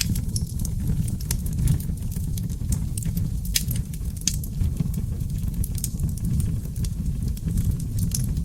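Wood fire of seasoned oak logs burning in a fireplace: a steady low rumble of flames with constant crackling and popping, two sharper pops near the middle.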